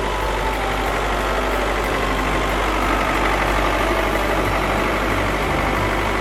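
A small tractor's engine or motor running steadily at idle, with an even hum that does not change.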